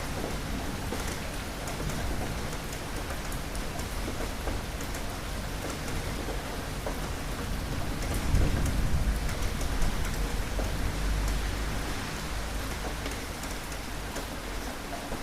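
Steady rain hissing, with a low roll of thunder rising about halfway through and rumbling away over a few seconds.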